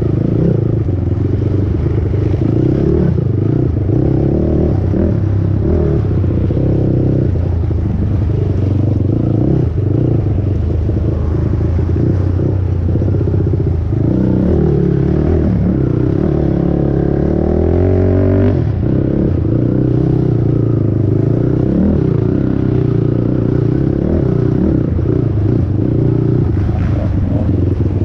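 450R race quad's single-cylinder four-stroke engine running hard under racing load, its revs rising and falling as it goes through the gears. About two-thirds of the way in there is one long climb in revs that drops off sharply.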